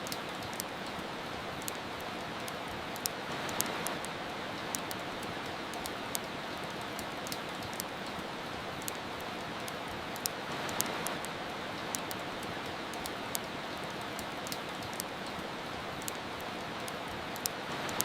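Steady hiss of soft rain with irregular sharp crackles and pops of a wood fire, about one or two a second.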